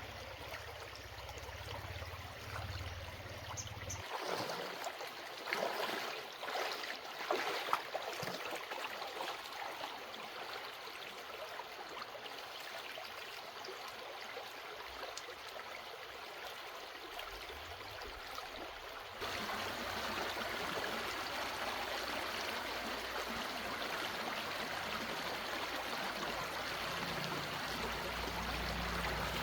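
Flowing water, an even rushing noise. Between about 4 and 8 seconds in there are scattered light knocks and rustles over it, and the sound changes abruptly twice, getting fuller and louder about two-thirds of the way through.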